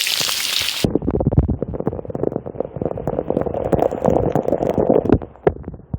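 Heavy rain hissing cuts off abruptly just under a second in. It gives way to a muffled rumble with many sharp knocks, water and handling noise on a wet or covered microphone, which fades near the end.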